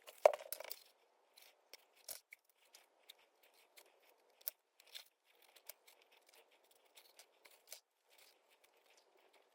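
Light scratching and scattered faint clicks as thin wooden boat-kit deck parts are handled and wood glue is brushed on, with one sharper knock just after the start.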